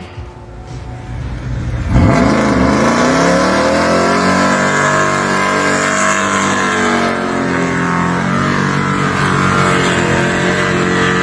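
Car engine running through a performance muffler, revving up sharply about two seconds in, then holding high revs with the pitch slowly rising and easing.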